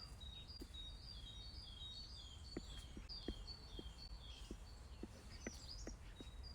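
Faint outdoor birdsong: a songbird repeating short, high, falling notes over and over, over a steady low rumble of background noise.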